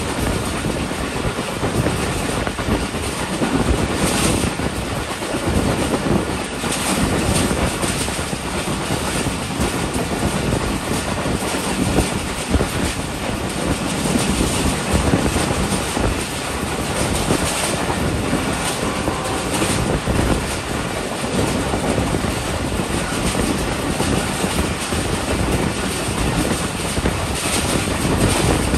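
Passenger train running along the track: a steady rumble of wheels on rails, with a few sharper clacks.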